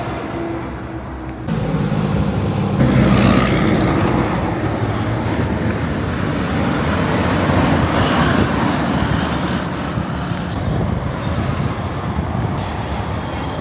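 Road traffic with heavy trucks driving past: steady engine rumble and tyre noise, swelling as vehicles go by, with a sudden jump in loudness about a second and a half in.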